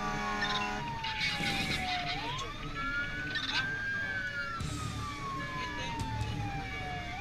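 Fire rescue truck's electronic siren on a slow wail, rising quickly and falling back over several seconds, twice, over the truck's engine rumble. A steady horn tone sounds briefly near the start.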